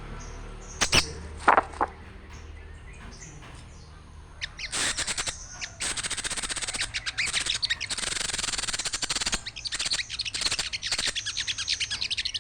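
Small birds chattering noisily, a dense rapid twittering that starts about four and a half seconds in and goes on with short breaks. It is a busy mixed small-bird noise of the kind used as a lure call. A few sharp knocks come about a second in.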